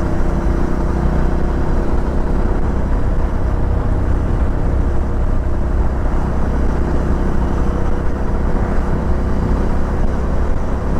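Suzuki V-Strom 650 XT's V-twin engine running steadily at riding speed, under a constant low rumble of wind and road noise on the microphone.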